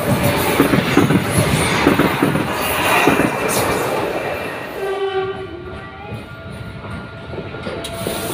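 Electric commuter train passing close at speed: loud rumble and clatter of wheels on the rails. About five seconds in this gives way abruptly to a much quieter stretch with a steady tone of several pitches.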